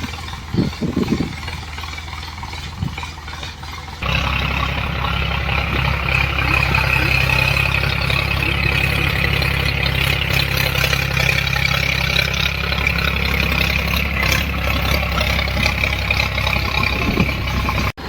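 Tractor's diesel engine running steadily, getting louder about four seconds in.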